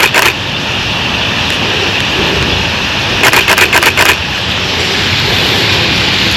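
Dense, steady din of a huge flock of purple martins chattering at their roost, with a quick run of about eight sharp clicks a little past three seconds in.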